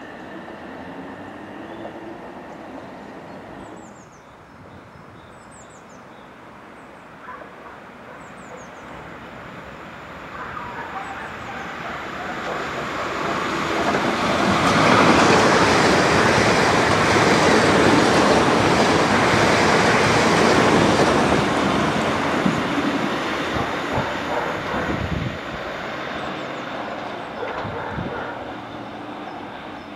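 South Western Railway electric multiple-unit train running through the station: its wheel and running noise builds from about ten seconds in, is loudest for several seconds, then fades away.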